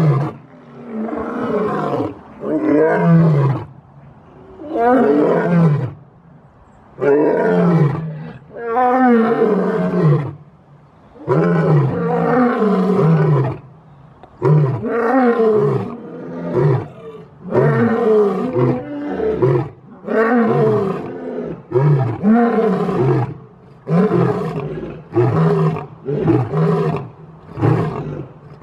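Lion roaring in a long series of deep calls, each about a second long and falling in pitch, the calls coming shorter and quicker near the end.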